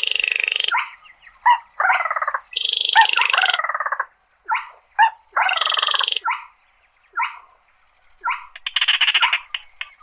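Baillon's crake giving a series of short, rattling trills, about a dozen calls of varying length with brief gaps between them, some overlapping.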